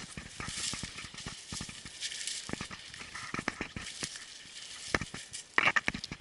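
Irregular rustling and crackling made of many small clicks and scratches, with a louder scratchy burst near the end.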